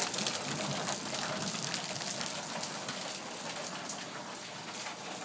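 Steady rain falling during a thunderstorm, a hiss of drops with a few separate drip ticks.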